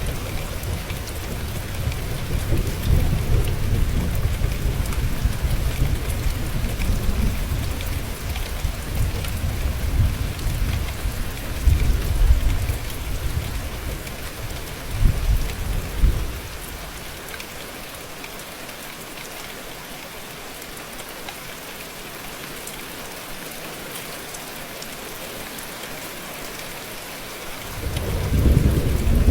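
Steady rain falling, with thunder rumbling through the first half and swelling twice before dying away about halfway. The rain then continues alone until a fresh roll of thunder starts near the end.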